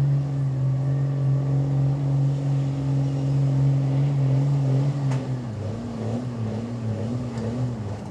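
Pickup truck engine at full throttle dragging a weight sled, its note held steady for about four seconds. Then the engine speed rises and falls over and over as the truck struggles and slows under the sled's load, and it slowly gets quieter.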